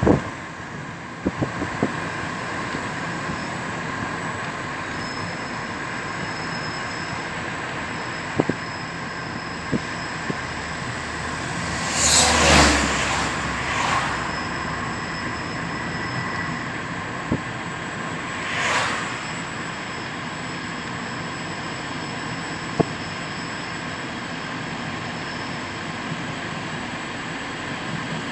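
Vivalto regional train hauled by an E464 electric locomotive, running steadily on the rails with scattered sharp clicks and a faint high wheel squeal that comes and goes. Two louder whooshes come about 12 and 19 seconds in.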